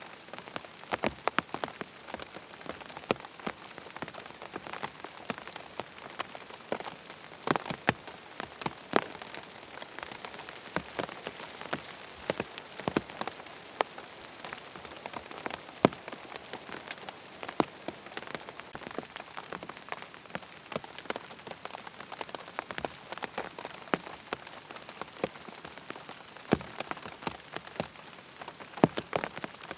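Steady rain falling, an even hiss broken by frequent, irregular sharp ticks of drops striking a surface.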